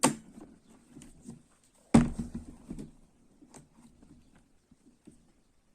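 A laptop battery being fitted into its bay: two sharp plastic knocks, one at the start and a louder one about two seconds in, then lighter taps and clicks of handling the laptop.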